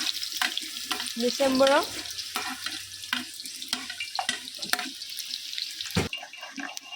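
Food sizzling as it fries in a pan, with a spatula knocking and scraping against the pan about every half second as it is stirred.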